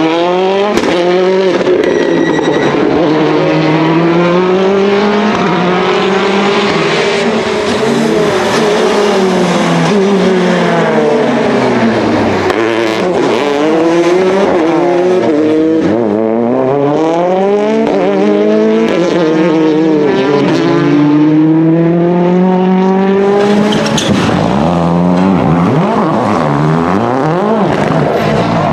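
Rally car engines revving hard, the pitch climbing and dropping again and again through gear changes and lifts off the throttle, with some tyre squeal.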